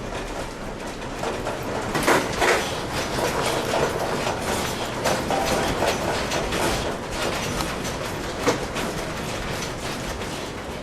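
A building's fittings and loose objects rattling and clattering continuously as an earthquake shakes it, with heavier clatter about two seconds in and a sharp knock near the end.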